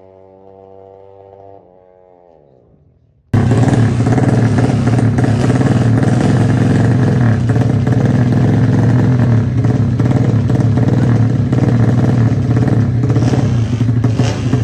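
About three seconds of music with a falling pitch, then a sudden cut to a loud, steady motorcycle engine running. The engine is a drag-race Yamaha Jupiter built with a Honda Supra cylinder head.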